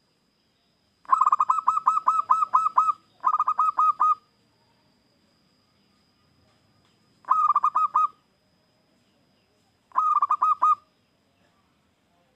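Zebra dove (perkutut) cooing: four bursts of quick staccato coos, about five notes a second, the first burst the longest, with pauses between.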